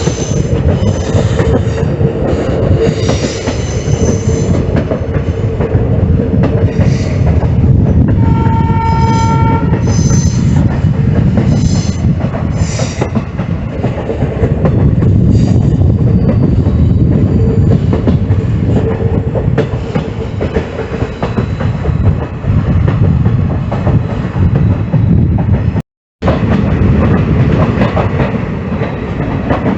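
Passenger train running on the rails: a steady rumble with wheel clatter and a held squealing tone. About eight seconds in, the train horn sounds once for just over a second. The sound cuts out for a moment a few seconds before the end.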